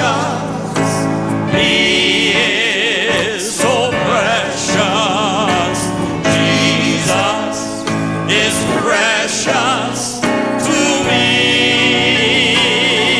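Live gospel music: voices singing sustained notes with vibrato over instrumental accompaniment, with no gaps.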